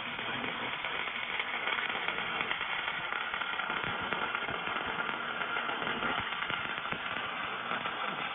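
Robotic welder's arc crackling and spattering steadily as it welds a pipe elbow.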